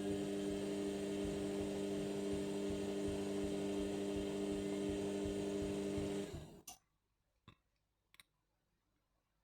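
Indesit My Time washing machine running during its final rinse: a steady electrical hum with a rushing noise, which cuts out about six seconds in, followed by a few faint clicks.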